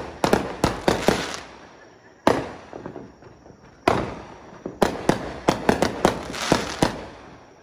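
Consumer fireworks going off: a string of sharp bangs, each with a short ringing tail. They come as a quick cluster in the first second and a half, single bangs about two and four seconds in, then a fast run of bangs in the middle, dying down near the end.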